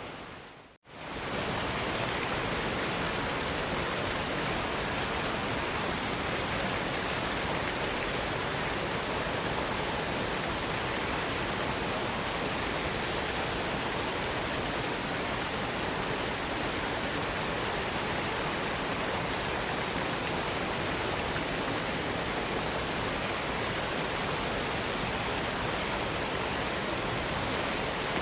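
Waterfall rushing, a steady, even roar of falling water. It fades out to silence for a moment under a second in, then comes straight back at the same level.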